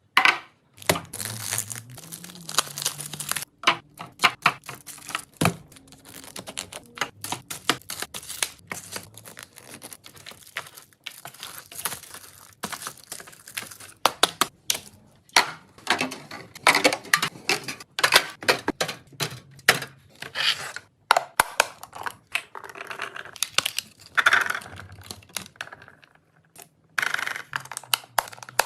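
Plastic packaging being torn open and crinkled, mixed with many irregular clicks and knocks as drinks and containers are unpacked and set in place while restocking a fridge.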